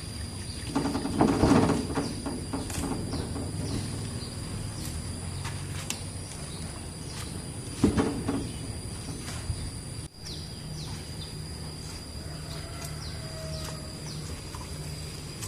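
Engine of the truck that powers the saw running steadily at idle, a low hum, with a couple of knocks around it. Faint bird chirps sound in the background.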